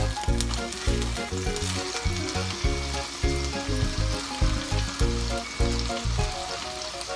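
Ahi tuna steak sizzling steadily in a frying pan, under background music with a steady beat.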